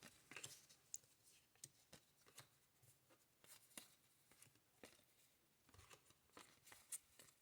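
Near silence, broken by faint scattered clicks and light rustles of trading cards being handled and sorted.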